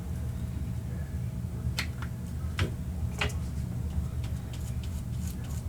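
A few light taps and clicks over a steady low hum.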